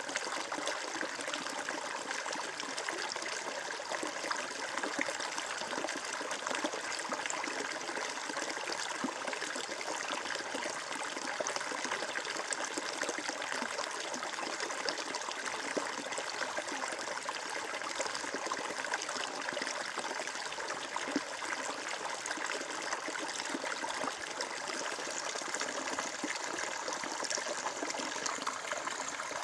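Water flowing and trickling steadily, as in a small stream.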